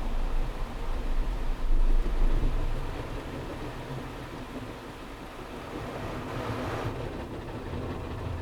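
Automatic car wash machine working over a car: a low rumble, heaviest in the first few seconds, and a rush of water spray that swells and cuts off suddenly about seven seconds in.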